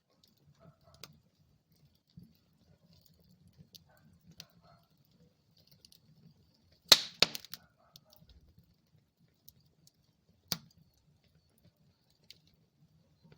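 Wood fire in a fireplace crackling: scattered faint crackles over a low rumble, with a loud cluster of sharp pops about seven seconds in and another single pop about three and a half seconds later.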